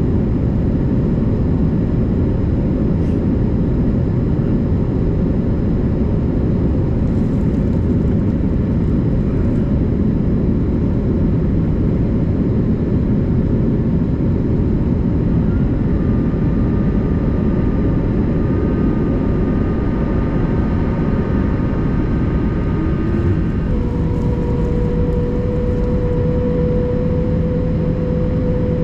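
Airbus A330-200 jet engines running at high power with steady, loud engine noise. A few thin steady whine tones come in about halfway through, and a stronger steady hum joins near the end.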